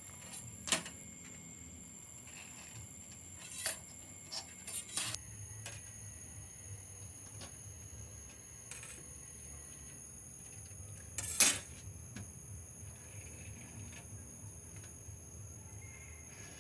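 Scattered light clicks and taps of small hard parts being handled, loudest about a second in and again about eleven seconds in, with a short run of taps around four to five seconds, over a faint steady high hum.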